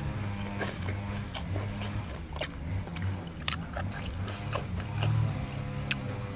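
Close-up chewing and wet mouth sounds of someone eating boiled beef, with scattered sharp clicks, over soft background music.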